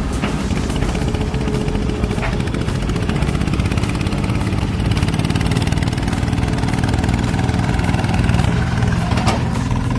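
Heavy truck engine running steadily, with a few faint clicks or knocks.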